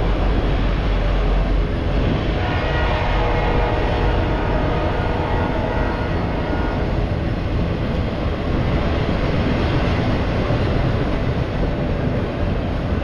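Norfolk Southern autorack freight train rolling past, a steady rumble and rattle of wheels on the rails.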